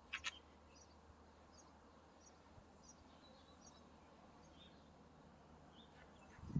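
Faint, scattered high bird chirps over quiet outdoor background noise, with two short clicks right at the start.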